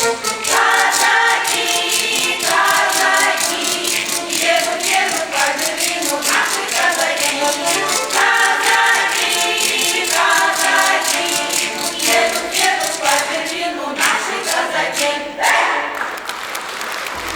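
A choir singing a song over a fast, even percussion beat.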